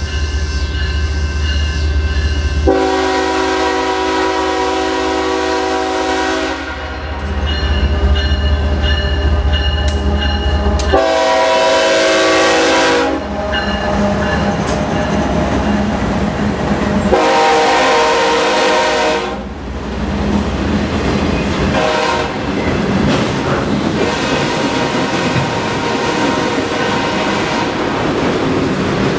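BNSF freight train's diesel locomotives approaching at speed and sounding the air horn four times, the first blast the longest and the last one short. They pass close by, followed by autorack cars with a steady rush and clatter of wheels on the rails.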